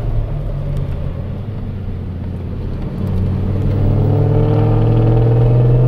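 Car engine heard from inside the car on track, running at low revs while slowing through a tight corner. About halfway through it comes back on the throttle and pulls harder, with a steadily rising pitch, as the car accelerates out.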